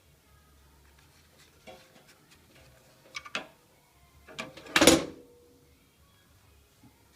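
Sharp plastic clicks and knocks from handling the compact cordless drill and its battery pack, then one short loud burst about two-thirds of the way through.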